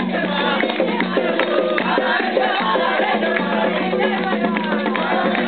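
Afro-Brazilian ritual drumming and chanting: hand drums and percussion beating a steady rhythm while a group of voices sings.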